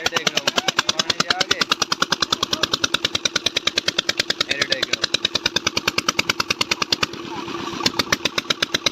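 Water-pump engine running steadily with a fast, even train of firing knocks, about ten a second. It runs after an oil-pump problem that had kept it from starting has been fixed. The knocks dip briefly about seven seconds in.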